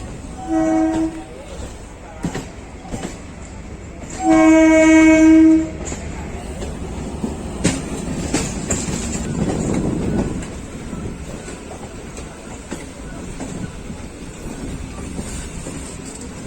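Indian Railways train horn sounding twice, a short blast and then a longer, louder one, over the steady running noise of a train at speed with intermittent clicks of wheels over rail joints.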